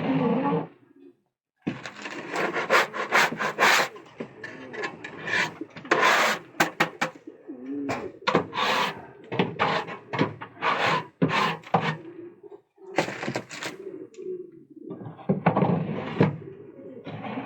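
Pigeons cooing in a loft, mixed with repeated scraping and rubbing strokes on wood that come in clusters with short pauses between them.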